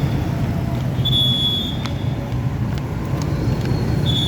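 Road traffic at a busy junction: a steady rumble of passing vehicles, with a short shrill whistle-like tone about a second in and again near the end.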